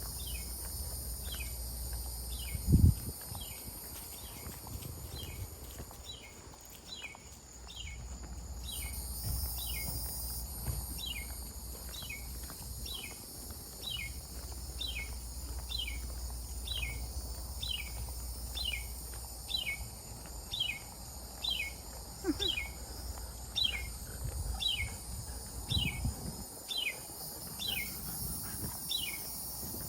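A bird repeating one short down-slurred whistle about every three-quarters of a second, over a steady high-pitched hiss and low rumble. A single loud thump about three seconds in.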